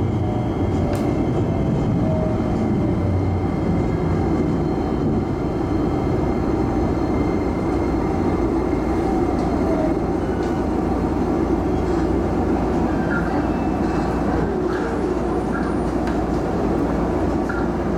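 Steady running rumble of a Shizuoka Railway A3000-series electric train, heard from inside its rear cab as it brakes into a station and comes to a stop. A faint whine falls in pitch at the start, and a few light clicks come near the end.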